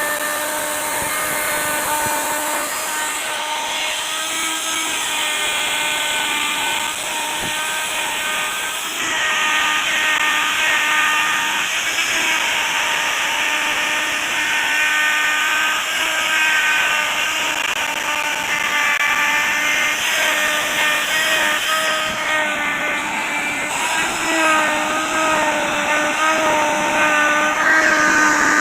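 Electric wood router running and cutting a carved flower pattern into wood: a steady high motor whine over the rasp of the cut, its pitch dipping and rising every few seconds as the bit takes more or less load.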